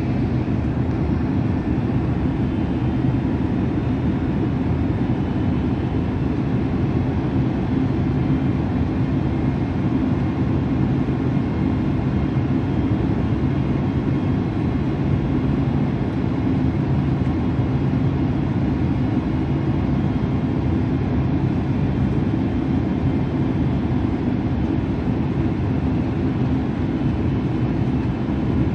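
Steady low rumble of a jet airliner's cabin in flight, with engine and airflow noise and a faint constant hum underneath, heard from a window seat during the approach.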